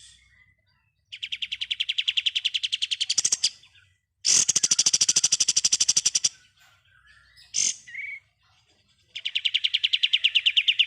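A kapas tembak songbird singing its rapid machine-gun 'ngebren' song: three long trills of about a dozen notes a second, each lasting about two seconds, with short single calls between them. The middle trill is the loudest.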